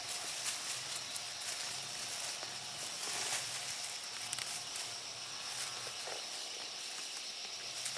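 Steady high insect drone with irregular rustling and crackling clicks over it.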